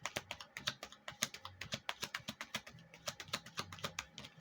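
Rapid, irregular clicking like typing on a keyboard, about six to eight clicks a second.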